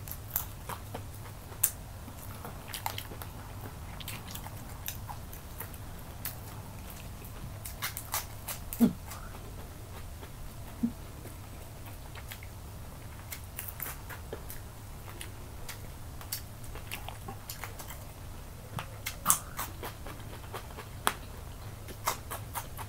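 Close-up eating sounds: chewing and crunching on crispy baked chicken wing, with scattered sharp clicks from the mouth and a few louder ones, over a steady low hum.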